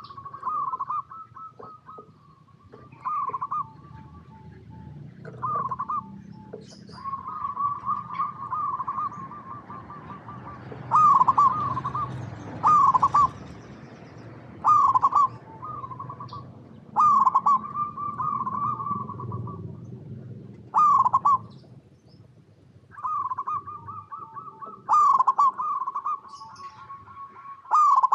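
Zebra dove (perkutut) singing: repeated phrases of quick staccato coos and rippling trills, a new phrase every second or two, some notes much louder than others.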